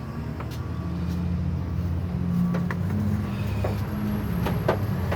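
1998 Mitsubishi Mirage's 1.5-litre four-cylinder engine running steadily at idle, with a few light clicks in the second half.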